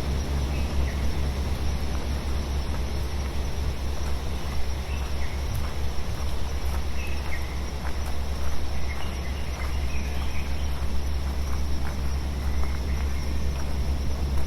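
Synthesized brown and pink noise, a steady hiss heavy in deep bass, mixed with a forest field recording in which faint, scattered bird chirps come and go.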